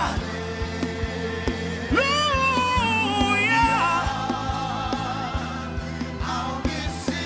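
Live gospel worship music: sustained keyboard chords and bass under a steady beat of about two drum hits a second, with a voice singing a long wavering phrase about two seconds in.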